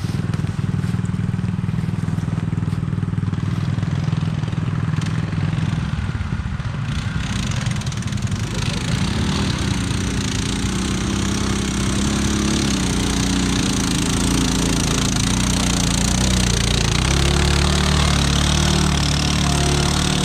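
Tractor engine running hard under load, a steady engine note that dips about six seconds in, then runs louder with more hiss from about eight seconds on.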